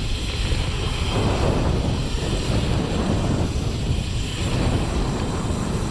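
Steady wind rumble on the microphone of a camera riding on a moving mountain bike, with road noise under it.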